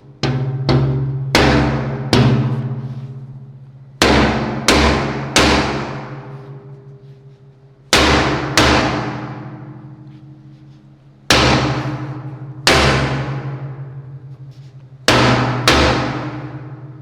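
Hammer blows on a hollow aluminum fuel tank, about a dozen strikes in groups of two or three, each leaving a long resonant ring that dies away slowly.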